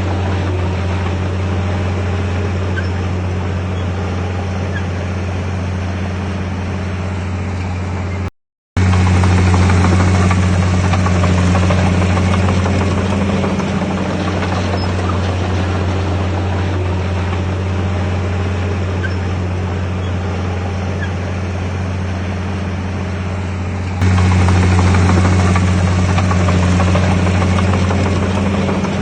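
Bulldozer's diesel engine running steadily with a deep, even drone. It breaks off for a split second about eight seconds in and comes back a little louder, then steps louder again near the end.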